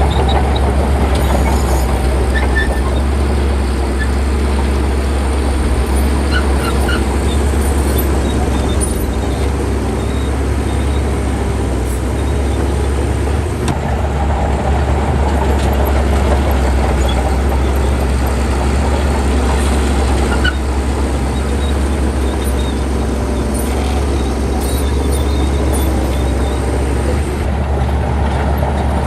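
Heavy diesel engine of earthmoving machinery running steadily with a strong low rumble, with a few faint high squeaks now and then.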